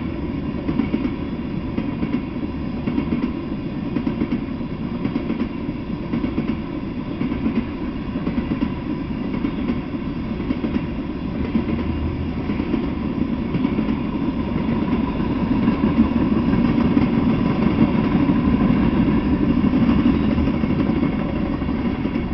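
Freight train of tank cars rolling past on the rails: a steady, loud, low noise of wheels on track that swells about three-quarters of the way through, as the last cars go by.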